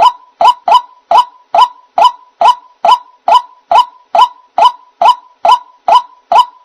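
White-breasted waterhen (ruak-ruak) call, used as a bird-trapping lure: one short, hoarse note near 1 kHz repeated in a steady, monotonous rhythm about two and a half times a second.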